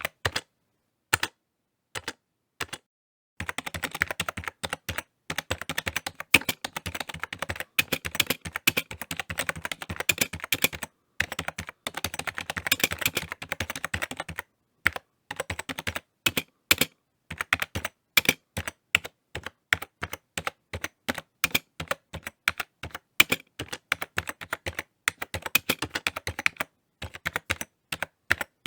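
Typing on a computer keyboard: irregular runs of key clicks, a few isolated strokes at first, then a fast continuous flurry for about ten seconds, then shorter bursts with brief pauses.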